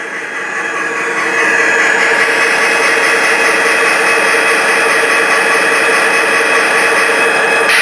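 Model train running on the layout: a steady mechanical whine and rumble of the locomotive's motor and wheels on the track. It grows louder over the first second or so as the train draws near, then holds steady.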